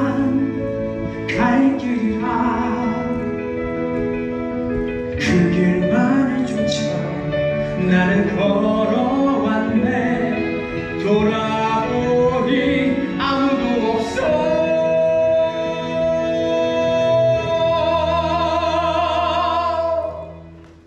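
Male ensemble of musical-theatre voices singing the closing bars of a dramatic Act 1 finale over accompaniment, building to one long held chord with vibrato that cuts off near the end.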